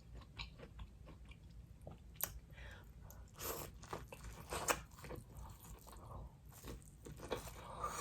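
Close-miked chewing of a seafood boil: soft wet mouth sounds and lip smacks with scattered sharp clicks, the loudest a few seconds in.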